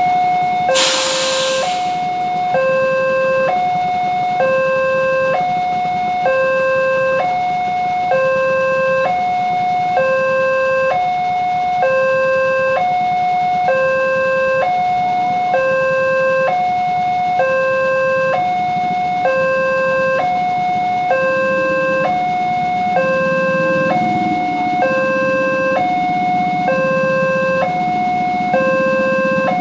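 Railway level-crossing warning alarm sounding a steady electronic two-tone signal, a higher and a lower tone alternating about once a second, warning that a train is approaching. A short burst of hiss comes about a second in, and a low rumble grows over the last several seconds.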